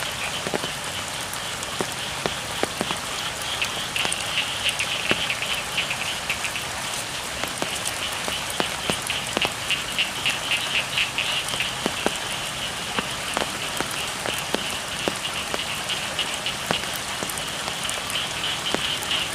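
Steady rain falling on rice fields, with many separate drops ticking. Over it a chorus of frogs calls in a fast, high-pitched pulsing that grows louder for a few seconds at a time.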